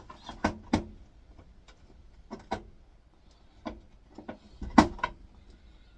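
Irregular clicks and knocks of a screwdriver and the air fryer's plastic casing being handled while its screws are taken out, the loudest knock coming a little before the end.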